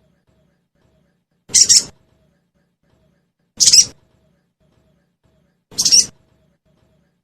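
Sogon bird calling in short, sharp chirping bursts, three times about two seconds apart, as a recorded lure call for a young sogon.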